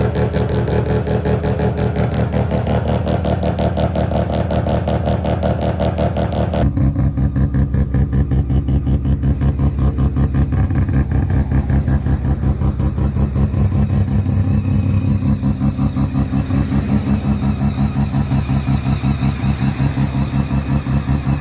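Mazda 12A two-rotor rotary engine running at a pulsing idle. About seven seconds in, it cuts to another engine clip that sounds deeper and has a stronger, evenly repeating pulse.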